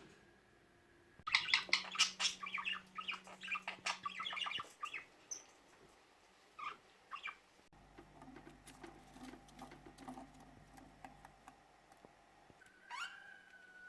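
Budgerigars chattering in quick bursts of short chirps and clicks, busiest in the first few seconds, then scattered faint clicks and a single call near the end.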